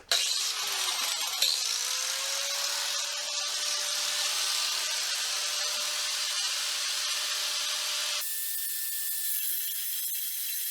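Power tool cutting a length of metal tube to size, a steady high hiss with a faint steady tone, changing abruptly about eight seconds in.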